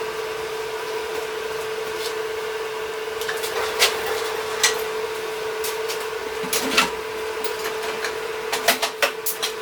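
Scattered sharp metal clinks and knocks of parts and hand tools being handled, thickening toward the end, over a steady hum.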